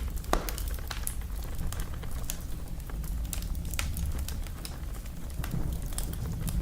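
Wood fire crackling in a fireplace: irregular sharp pops and snaps over a low steady rumble, with one louder pop shortly after the start.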